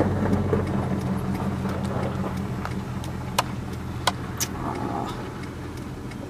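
Car engine running with a steady low hum that gradually fades, with three sharp clicks in the middle.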